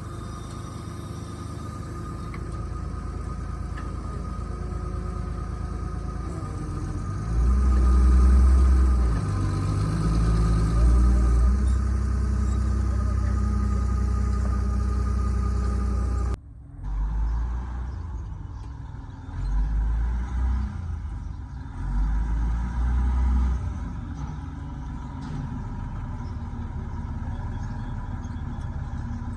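A vehicle engine running, with several swells where it grows louder, and a sudden break about halfway through.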